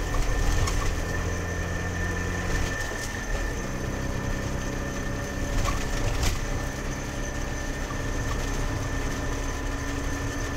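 Trabant's two-stroke engine running as the car drives, a steady drone whose pitch shifts about three seconds in.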